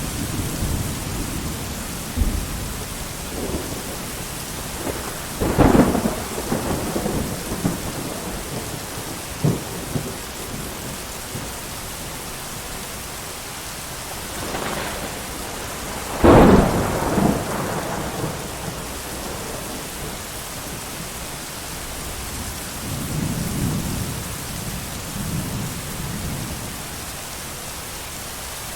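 Steady heavy rain with thunder: a sharp clap about six seconds in, a louder clap rolling away for a couple of seconds about sixteen seconds in, and a softer low rumble near the end.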